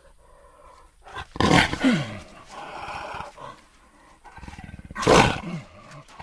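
Monster-like roars: two loud roars about three seconds apart, the first sliding down in pitch, with a rough rattling growl between and after them.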